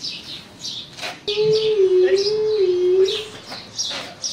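Small birds chirping over and over in a barn. In the middle, a loud held tone with a wavering pitch lasts about two seconds.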